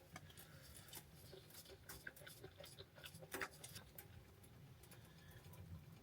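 Faint, scattered small clicks and taps over a low steady hum.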